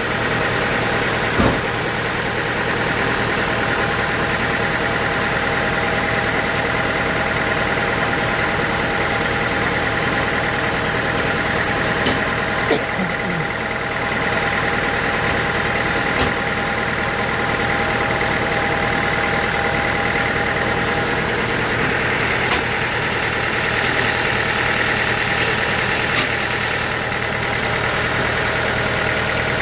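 Sawmill machinery running with a steady engine-like hum, broken by a few brief sharp knocks.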